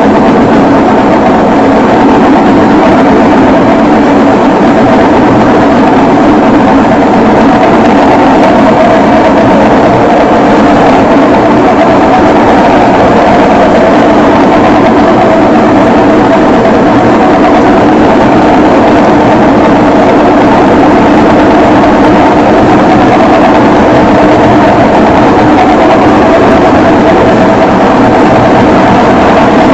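Electrolux LT10B top-loading washing machine running with a loud, steady mechanical drone that does not change.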